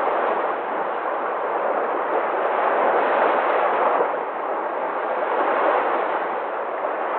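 Sea waves breaking and washing ashore in a continuous rush of surf, swelling a little about halfway through.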